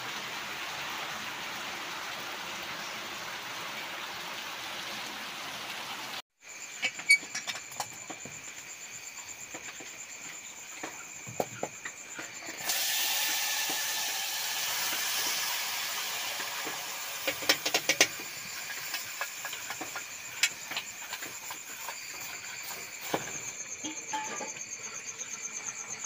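Cooking-pot sounds at night, with crickets or other insects chirring steadily from about six seconds in. Near the middle comes a hissing sizzle as the fish are tipped into the hot pan, and sharp clinks of metal utensils come now and then. The opening stretch is an even hiss.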